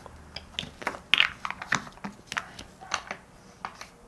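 Irregular light clicks and taps of small plastic makeup items being picked up and handled, about a dozen in a few seconds.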